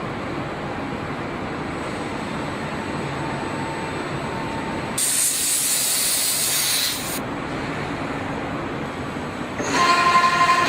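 CNC mill-turn machine running with a steady mechanical hum. Near the middle a high hiss lasts about two seconds, and near the end a louder whine with several pitches sets in.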